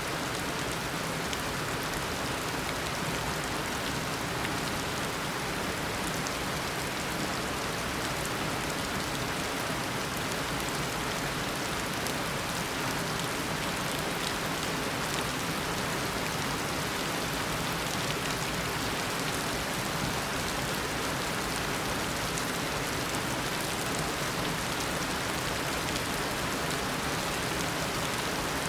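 Steady heavy tropical downpour, a dense, even hiss of rain with fine drop patter on surfaces.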